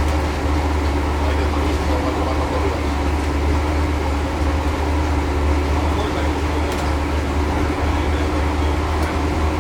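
Sauna boat underway: its engine running with a steady low drone and a constant rushing noise over it.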